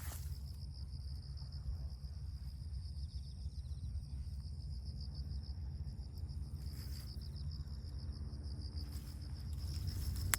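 Crickets chirping steadily: a continuous high, finely pulsing trill over a low steady rumble.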